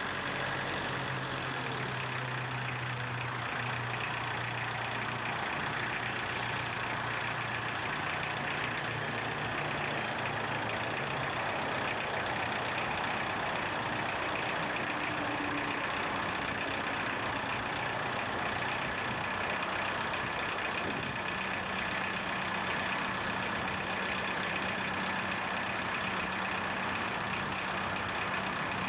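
Engine running steadily at idle, with a low hum that fades out about a third of the way through.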